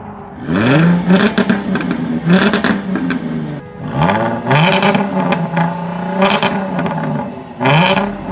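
Jaguar F-Type sports car engine and exhaust accelerating hard: three times the pitch sweeps sharply up and holds, with short breaks about 3.5 s in and near the end, like gear changes. Crackles come from the exhaust.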